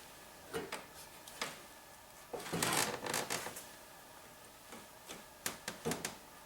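Scattered clicks and light knocks of hand tools being worked on a snowmobile, with a short spell of rattling about two and a half seconds in and a few sharp clicks near the end.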